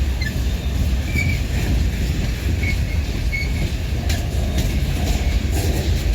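Freight train of loaded lumber cars rolling past at close range: a steady low rumble of wheels on rail, with a few short high squeals and light clicks from the wheels.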